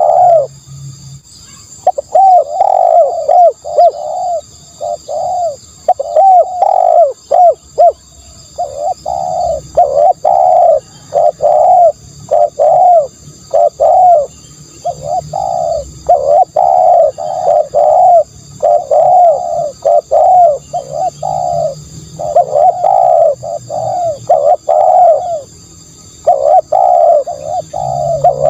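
Spotted dove cooing: short notes in runs of several at a time, repeated over and over with brief pauses between phrases.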